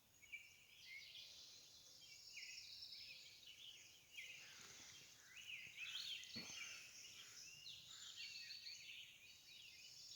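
Faint chorus of many songbirds singing at once, overlapping chirps and quick whistled phrases with no pause, and a soft thump about six seconds in.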